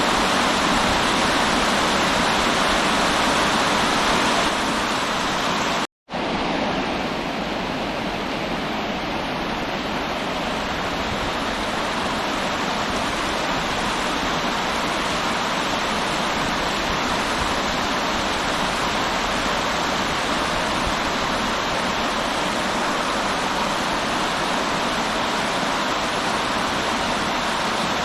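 River water rushing, a dense steady noise. About six seconds in it drops out for a split second and resumes slightly softer and duller.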